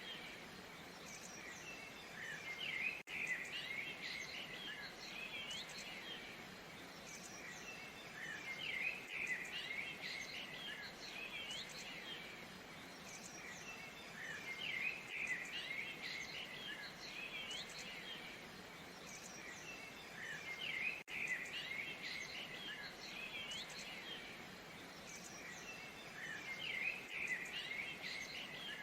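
Steady rush of a waterfall with many small birds chirping over it, the chirps coming in busy clusters every few seconds. The sound drops out very briefly twice.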